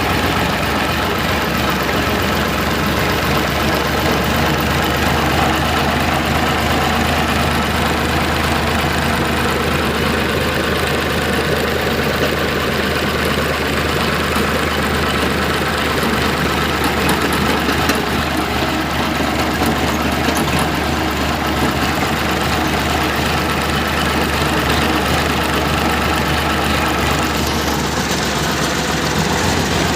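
Tractor engine running steadily with a low drone, its note shifting slightly near the end.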